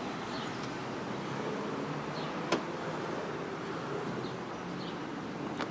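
A car running, a steady low hum with faint held tones under a light hiss, with a sharp click about two and a half seconds in and another near the end.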